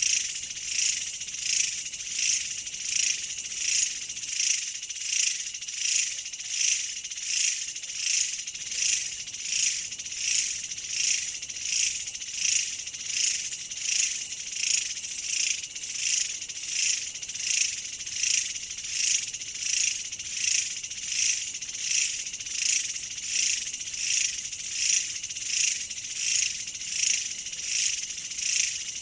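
A chorus of insects, likely crickets, trilling high-pitched in even pulses a little faster than one a second, steady throughout.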